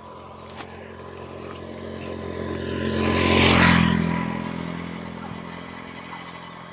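A motor vehicle passes close by. Its engine and road noise swell to a peak a little past halfway, then fade as the engine note drops.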